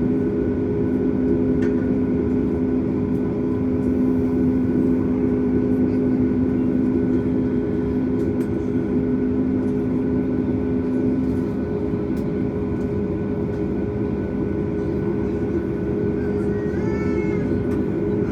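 Steady cabin drone aboard a Boeing 737 MAX taxiing slowly: the CFM LEAP-1B engines at taxi power and the cabin air, a low rumble with several steady hums.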